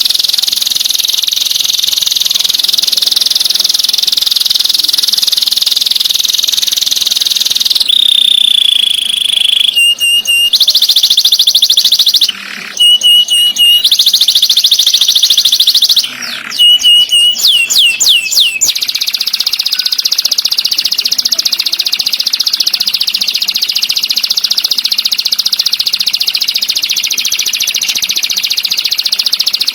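Songbird song from a masteran training track, loud and high-pitched. A dense, very fast trill breaks up between about 8 and 19 seconds into separate short notes and a run of downward-sweeping calls, then the fast trill resumes.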